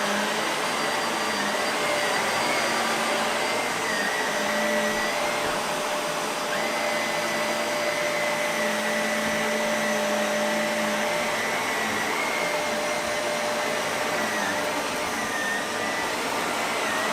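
Shark Navigator Lift-Away Deluxe NV360 upright vacuum running with its brush roll on: a steady motor rush with a high whine that wavers slightly in pitch.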